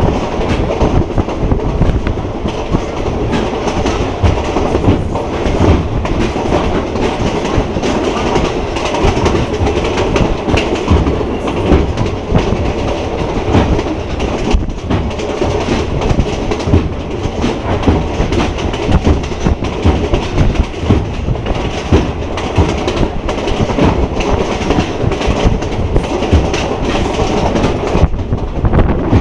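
Passenger train running at speed, heard from on board: a steady rumble of the wheels on the track with many irregular knocks and clatters.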